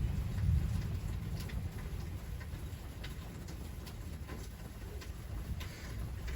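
Rain dripping around a porch, with scattered drops tapping at irregular moments over a steady low rumble.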